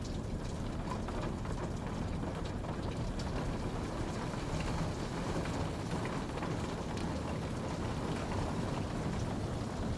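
Steady rain, a dense even hiss with scattered drop ticks.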